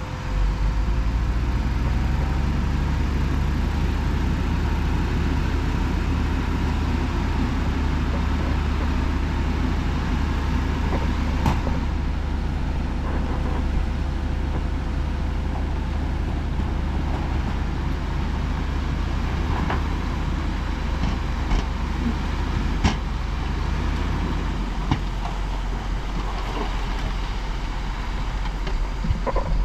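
Heavy diesel engine of earthmoving machinery running steadily under load, with a few sharp knocks; the deep engine note drops about 25 seconds in.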